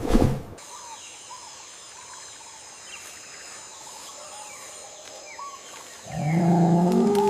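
Rainforest ambience: a steady high whine with scattered faint bird chirps, then about six seconds in a loud, low, drawn-out animal call that wavers in pitch. A brief loud noise opens the clip.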